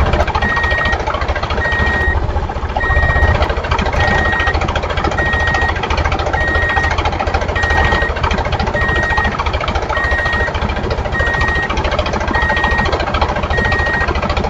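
A toy tractor's engine sound: a fast, steady rattling chug with a short high reversing-style beep repeating about three times every two seconds.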